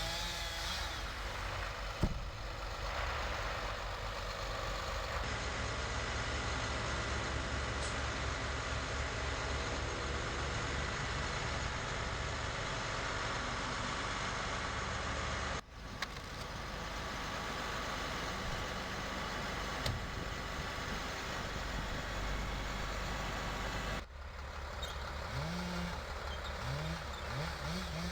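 A truck or heavy-machinery engine running steadily through several cut-together stretches.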